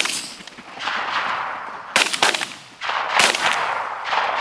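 Shotgun shots fired at geese, about four reports over the few seconds, the last three close together. Each shot trails off in a rolling echo.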